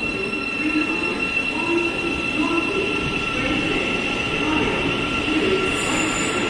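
Thameslink Class 700 electric multiple unit pulling into an underground platform and slowing, with a steady high-pitched whine over its running noise. A short hiss comes near the end.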